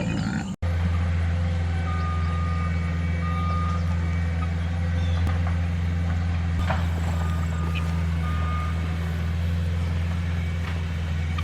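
Heavy machinery's engine running steadily with a deep hum, while a reversing alarm beeps on and off in short runs of beeps.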